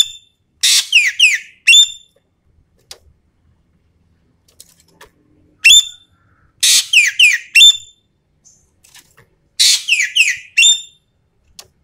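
Green magpie (ekek keling) calling in four loud bursts: each a rapid run of three or four harsh descending notes ending in a sharper, higher note, with gaps of a few seconds between bursts.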